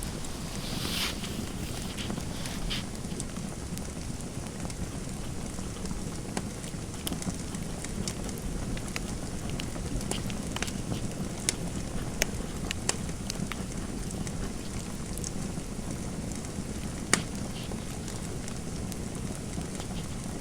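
Fireplace fire crackling: a steady low rush with scattered sharp pops, one louder pop about seventeen seconds in.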